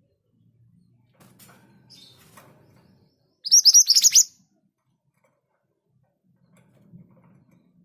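Scarlet minivet calling: one loud burst of rapid, high-pitched notes lasting under a second, about halfway through, after a few faint ticks.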